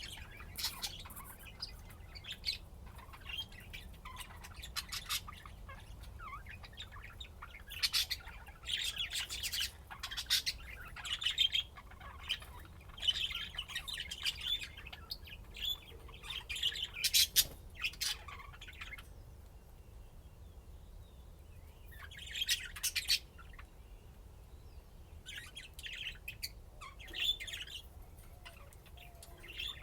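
Budgerigars chirping and warbling in intermittent bursts, with a few squawks and short quiet gaps in between.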